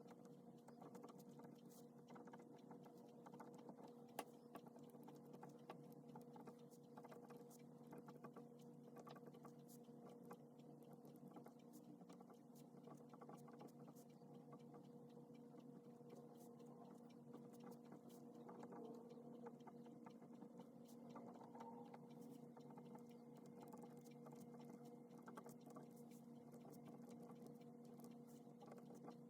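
Faint scratching and tapping of a pen on paper during handwriting, many small irregular strokes, over a steady low electrical hum.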